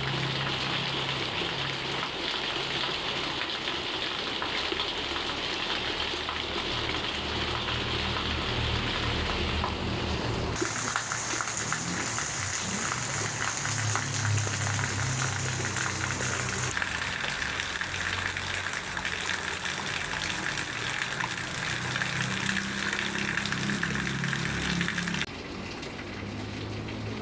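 Heavy rain falling steadily, a continuous hiss of drops on surfaces. Its tone shifts abruptly three times where the recording is cut between takes.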